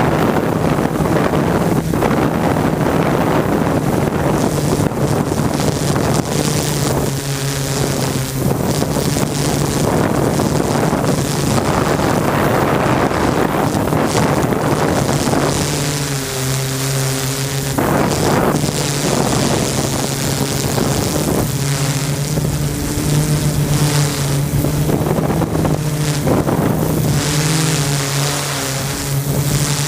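Camera drone's propellers humming steadily in flight, with a rushing noise of wind over the microphone.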